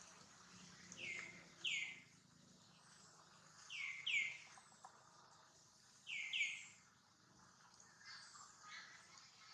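A bird calling in pairs of short, falling chirps, three pairs about two and a half seconds apart, over faint outdoor background noise.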